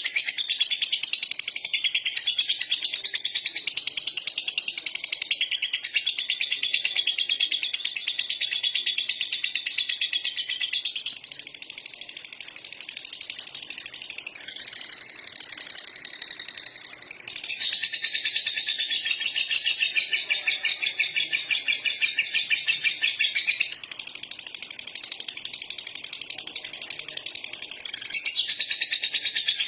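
Lovebird singing a long, unbroken run of rapid, high-pitched chattering, the kind of nonstop 'ngekek' song bird keepers prize in a 'konslet' lovebird. The chatter shifts in pattern abruptly every few seconds without any pause.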